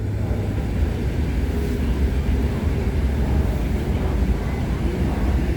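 Diesel locomotives of a CN freight train running past, a steady low rumble.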